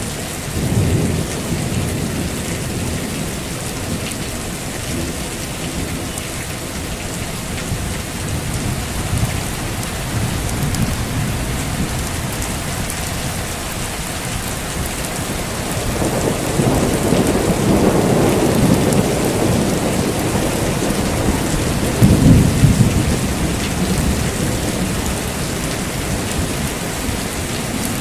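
Heavy rain falling steadily, with rolling thunder rumbling through it. The loudest rumbles come about two thirds of the way in, and the sharpest one soon after.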